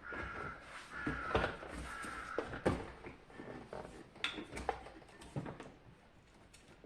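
Parts of a SilverCrest SLE 450 A1 dehumidifier being handled during disassembly: irregular clicks and knocks of plastic and small parts, with a thin squeak in the first couple of seconds, dying away near the end.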